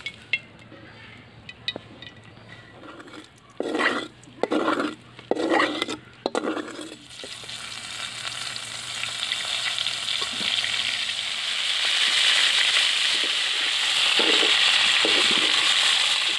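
A few short, loud sounds about four to six seconds in, then stuffed bitter gourds sizzling in hot oil in an iron kadhai, the sizzle growing steadily louder through the second half.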